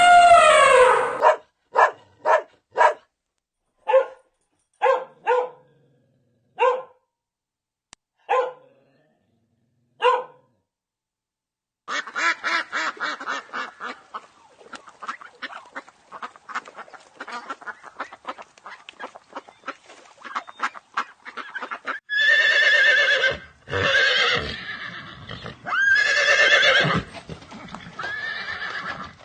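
A sequence of animal calls. First a long sliding call ends, then come about eight short dog-like barks spaced a second or so apart. After a short pause there is a long fluttering call, and from about 22 s horses neigh and whinny loudly.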